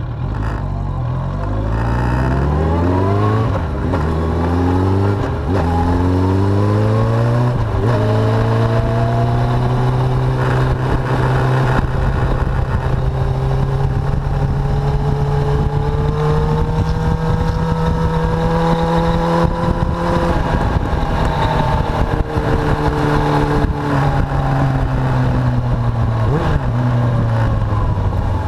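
Suzuki GSX750F motorcycle's inline-four engine pulling hard through the gears: the pitch climbs in steps with about three upshifts in the first eight seconds, then holds near steady while cruising, and falls away as the bike slows near the end.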